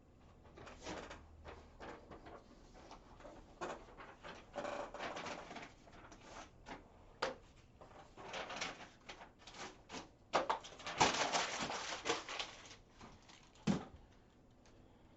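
Handling noises on a tabletop: scattered clicks and taps with rustling, and a longer stretch of crinkly rustle about ten seconds in, typical of packaging and trading cards being handled.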